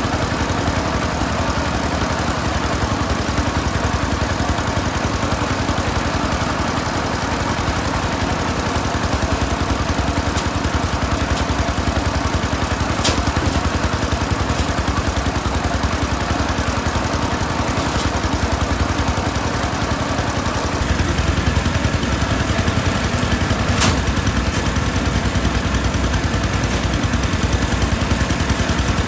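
A small engine running steadily, growing somewhat heavier and deeper about two-thirds of the way through, with a few sharp clicks over it.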